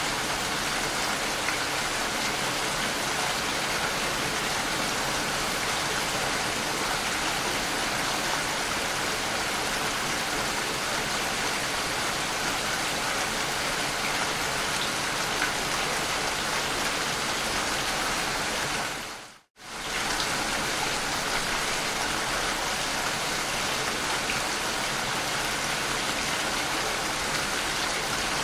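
Steady rain falling, an even hiss of drops without a break in rhythm. About two-thirds of the way through it fades out to silence and straight back in within a second.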